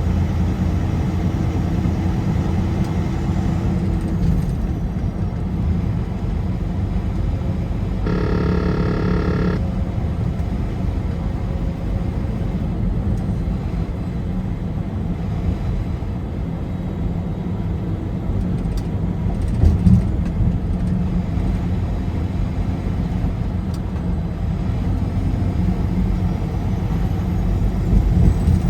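Car driving at highway speed: a steady low engine and tyre rumble. About eight seconds in, a brief pitched tone sounds for about a second and a half.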